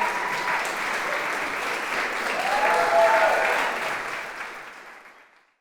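Audience applauding, with a few cheering voices and whoops, fading out near the end.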